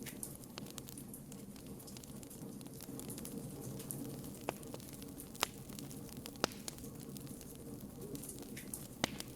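Wood campfire burning with a steady low rush and constant light crackling, broken by a few sharp, louder pops.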